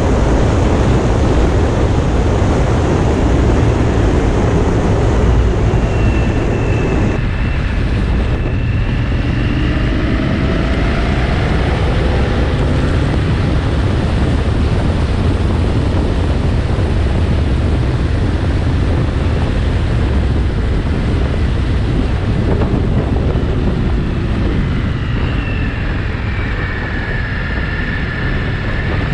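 Motorcycle riding at speed: steady wind buffeting on the microphone over low engine and road rumble, with a faint engine pitch rising and falling a few times.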